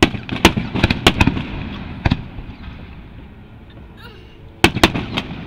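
Aerial fireworks shells bursting. A volley of sharp bangs comes in the first second or so, with another about two seconds in. After a quieter stretch, a second quick cluster of bangs comes near the end.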